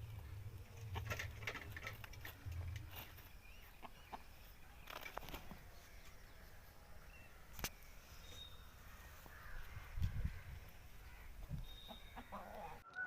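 Aseel chickens heard faintly, with scattered short clicks and a low rumble near the start and again near the end. No rooster crow.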